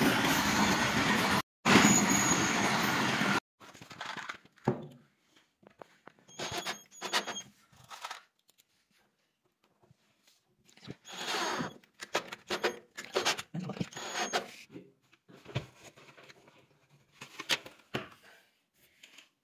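A passenger train's coaches running past on the rails, cut off abruptly about three and a half seconds in. Then mostly quiet, with scattered short knocks, taps and rustles of hands handling hardware and boards.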